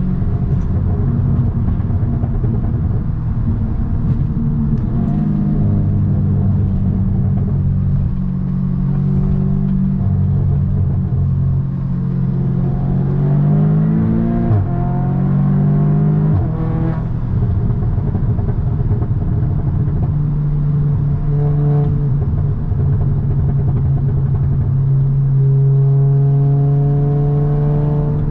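2017 Audi S3's turbocharged 2.0-litre four-cylinder engine and exhaust running steadily on the move. About halfway through the revs climb, then drop sharply at a gear change before settling back to a steady drone.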